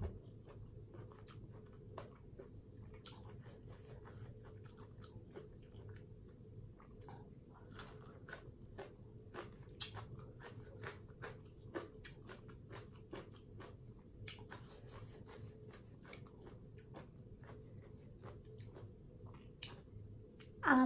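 Close-up chewing and biting of a person eating papaya salad, a run of small wet clicks and crunches. Right at the end comes a brief, louder sound that falls in pitch.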